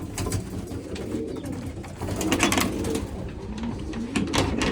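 Pigeons cooing in a loft, with scattered sharp clicks and brief flurries of noise from the birds moving and pecking at grain.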